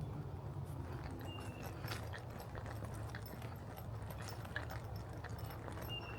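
Footsteps on a trail, irregular light taps and ticks over a steady low hum, with two short high chirps, one about a second in and one near the end.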